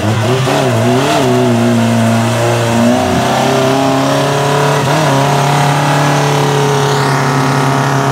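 Suzuki Jimny's engine revving hard under load as the 4x4 drives through deep mud, the pitch wavering for the first second or so and then held high and steady.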